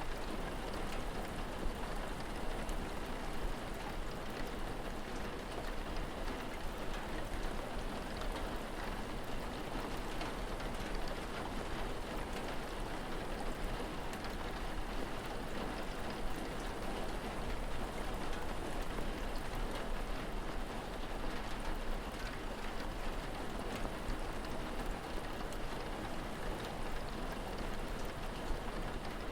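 Steady rain falling, an even patter of drops with a low steady hum underneath.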